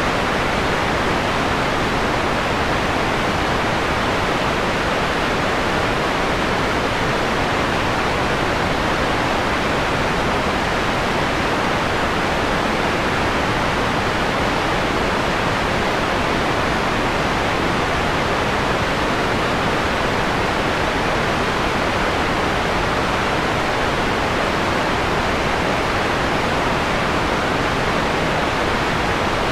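Steady synthetic white noise, filtered to a mellower, pink-noise-like hiss with the treble rolled off above a few kilohertz. It is even and unchanging, with no other sounds.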